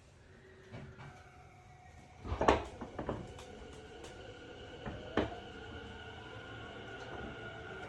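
Tobu 50090-series electric train pulling away from a standstill. The traction motor and inverter whine rises slowly in pitch as it gathers speed, broken by several sharp clunks, the loudest about two and a half seconds in.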